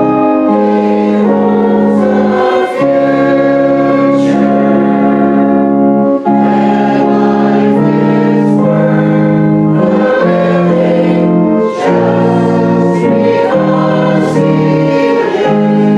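A church congregation singing a hymn together, held chords moving every second or so.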